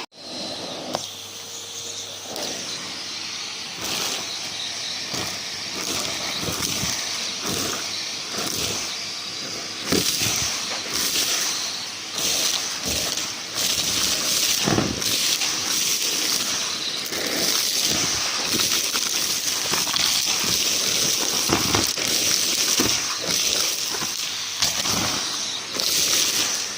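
Numatic James canister vacuum cleaner running with a steady rush of air, sucking up dry debris that crackles and clatters through the hose in frequent sharp clicks.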